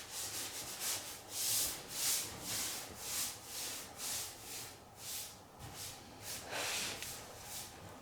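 Wood stain being worked into bare wooden floorboards by hand, a repeated rubbing hiss of about two strokes a second.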